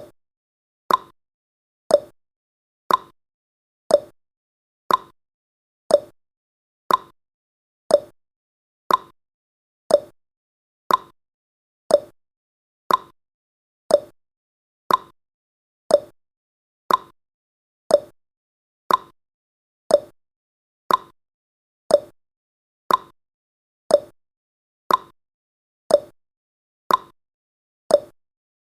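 Countdown timer's clock-ticking sound effect: one sharp tick each second, alternating between a higher and a lower tick like a tick-tock.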